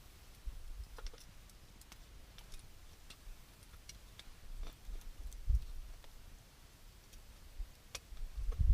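Wood campfire crackling: sparse, irregular sharp pops and ticks over a low rumble.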